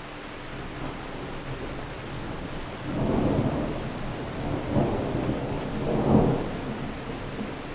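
Steady rain with thunder: a rolling rumble builds about three seconds in, swells twice more, then fades back to the rain.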